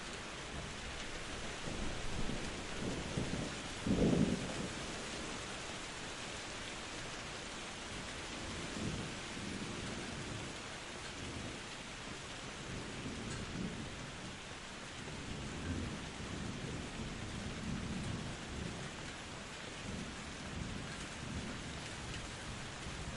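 Steady rain falling, with thunder: a rumble building a couple of seconds in and cracking loudest about four seconds in, then softer low rolls of thunder on and off through the rest.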